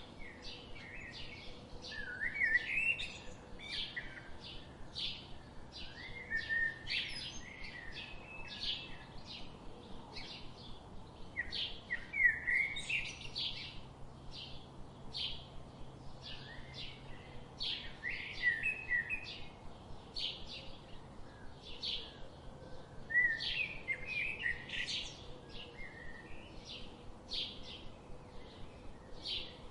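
Songbirds chirping and singing: a continuous run of short high chirps, about two a second, with louder song phrases breaking in every several seconds, over a faint steady hiss.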